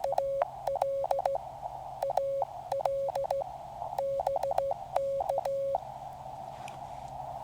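Morse code (CW) from a QCX mini QRP transceiver: a single steady-pitched tone keyed on and off in dits and dahs, grouped as characters. It stops about six seconds in, leaving the receiver's narrow band of hiss.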